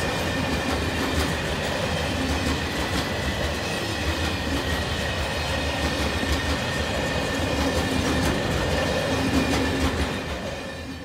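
Empty timber stake wagons of a freight train rolling past, wheels clattering steadily over the rails with irregular clicks and a faint high wheel squeal. The sound fades out near the end.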